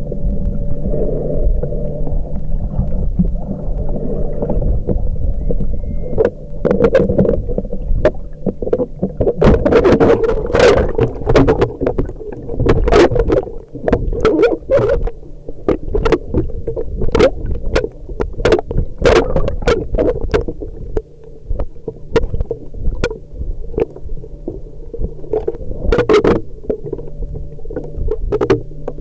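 Muffled underwater sound while snorkeling: a steady low hum with water sloshing, and from about six seconds in, frequent sharp clicks and pops.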